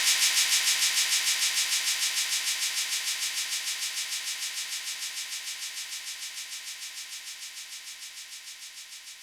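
Techno track fading out: the kick drum and bass cut out, leaving a high, hissing rhythmic layer that pulses about six or seven times a second and fades away slowly.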